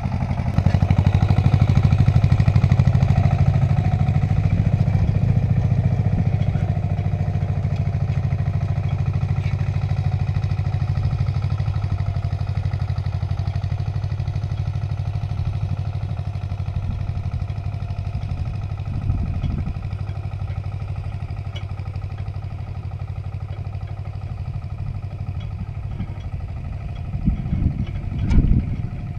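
Agria 8900 articulated tractor's engine running steadily under load, pulling a trailed disc harrow. It is a little louder in the first few seconds. Short knocks and clatter come about 19 seconds in and again, louder, near the end.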